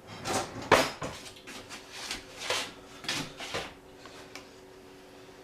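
Kitchen drawer and metal utensils clattering as a ladle is fetched: a string of knocks and clinks over the first three and a half seconds, the sharpest about three quarters of a second in. After that only a faint steady hum remains.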